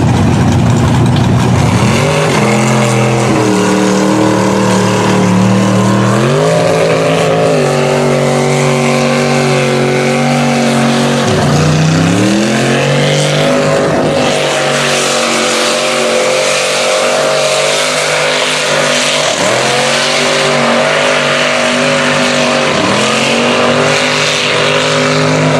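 Mud truck engine running at high revs under heavy throttle, the revs dropping and climbing again several times and held high in between, over a hiss of spinning tires and spraying mud.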